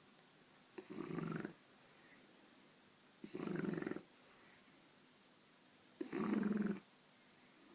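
Shar-pei puppy snoring: three snores, each under a second long, about two and a half seconds apart.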